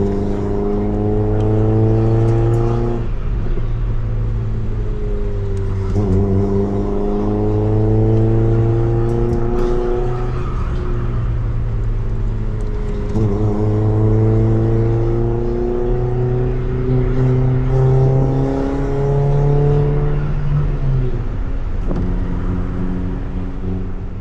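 Honda EF Civic's four-cylinder engine breathing through a Tanabe Revel Medalion Touring S exhaust, pulling up through the revs with its pitch climbing steadily and then dropping back as it shifts up, several times over. Near the end it settles to a lower, steady drone.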